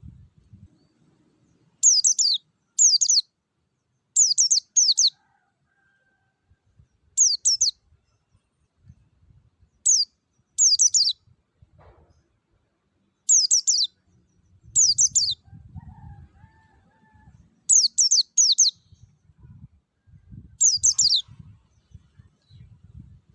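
A white-eye (pleci) singing in short bursts of high, quickly falling twittering notes, often two at a time, a second or two apart.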